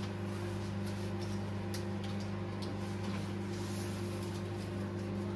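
Steady low hum with a few faint light clicks and rustles from flower stems and leaves being handled while a bouquet is arranged.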